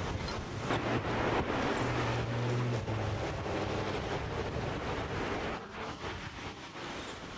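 Storm wind gusting hard across the microphone, with a low steady tone, like a horn or engine, sounding for about a second and a half around two seconds in; the wind eases somewhat near the end.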